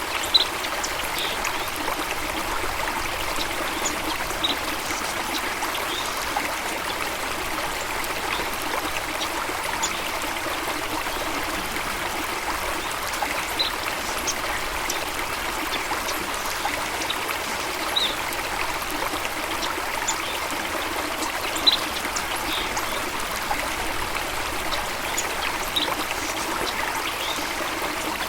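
Steady rushing of a stream or small waterfall, with brief high bird chirps every few seconds.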